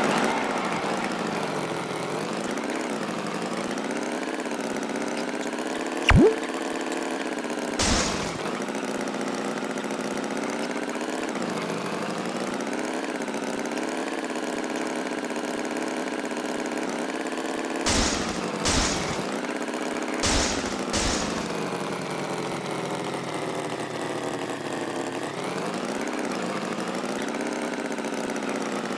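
Cartoon tractor engine running steadily, its pitch wavering a little. A short rising squeak comes about six seconds in, and a few short sharp noisy bursts come later.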